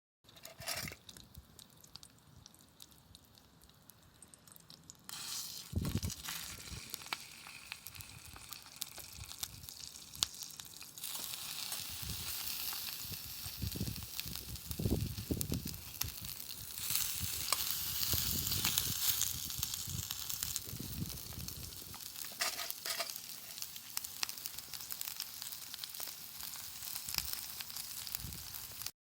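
Food sizzling as it fries over a campfire, a steady hiss with scattered crackles, stepping louder about five seconds in and again about eleven seconds in.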